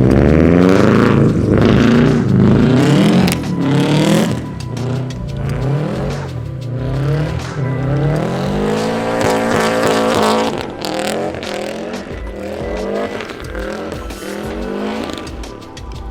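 Car engine revved hard through a drift slide, its pitch rising and falling again and again as the throttle is worked. Loudest for the first few seconds, then quieter.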